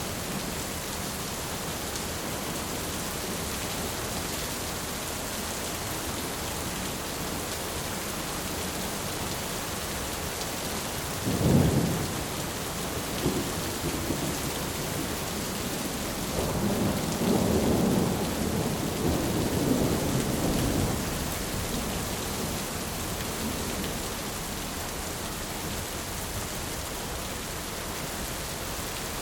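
Thunderstorm: steady rain hissing, with a sharp crack of thunder about a third of the way in and a longer low rumble of thunder a few seconds later.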